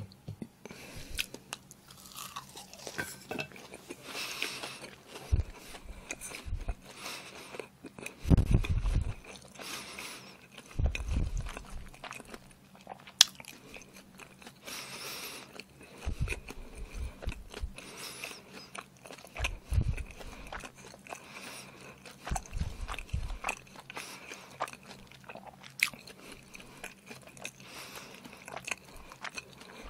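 A person chewing a mouthful of pan-fried sea worm pancake close to the microphone, with many small wet mouth clicks and crunches. A few dull low thumps come and go through the chewing.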